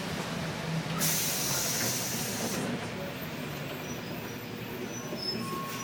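Interior running noise of a 2007 New Flyer D60LFR articulated bus on a wet road: a steady low rumble. About a second in, a loud hiss starts suddenly and cuts off sharply a second and a half later. Faint short tones sound near the end.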